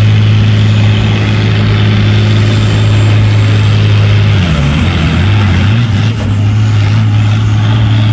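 Farm-stock pulling tractor's engine running hard and loud at a steady pitch. About halfway through, the engine note sags and wavers for a second or so, then settles back.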